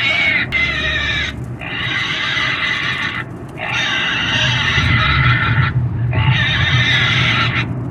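A pig squealing: a run of long, shrill screams, about four of them, each lasting one and a half to two seconds, with only brief breaks between.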